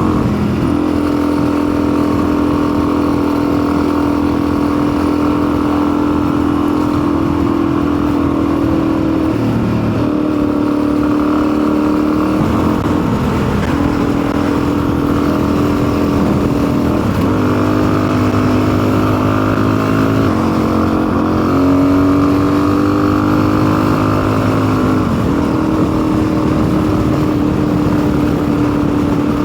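Custom motorcycle's engine running under way, a steady engine note that drops and picks up again in pitch several times as the throttle changes. The rider says it is not running right, and he wonders whether the altitude is the cause.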